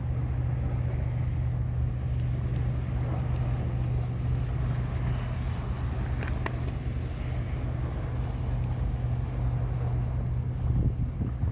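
A steady low motor hum with wind noise on the microphone.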